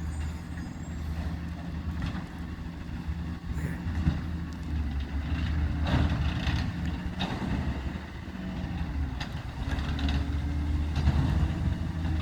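Recycling truck's engine running with a steady low rumble, with several scattered clanks and knocks over it.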